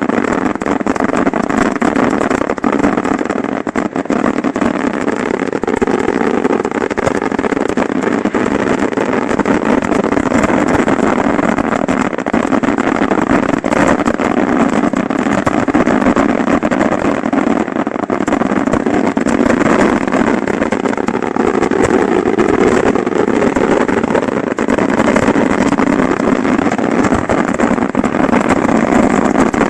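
Fireworks finale heard from close to the launch site: a dense barrage of rapid-fire shell and mortar explosions so close together that they merge into one continuous loud rumbling din, unbroken throughout.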